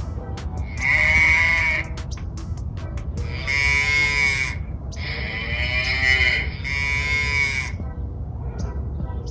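Recorded cattle mooing: four long, drawn-out moos, each about a second, played back with faint background music.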